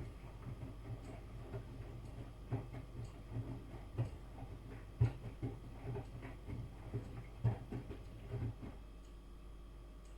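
Miele front-loading washing machine running a wash cycle, its drum turning the laundry: irregular soft knocks and clicks over a steady low hum.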